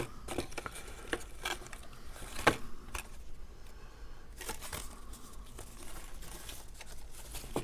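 Cut cardstock pieces being handled and pressed into place on a paper box card: soft rustling and small taps, with a sharper tap about two and a half seconds in.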